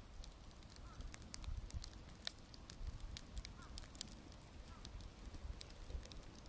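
Wood bonfire crackling, with many sharp irregular pops and snaps over a low rumble.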